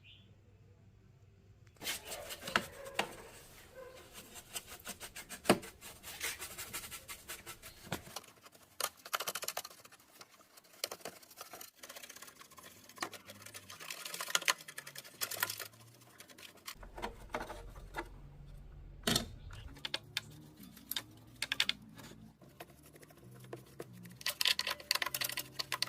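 Irregular clicks, taps and small rattles of hard plastic parts being handled, typical of a portable cassette player being opened up and worked on by hand. They begin about two seconds in and go on in uneven bursts.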